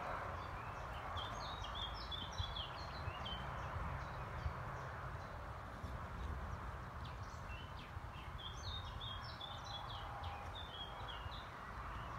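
Small birds singing in two runs of quick high chirps over a steady low outdoor rumble.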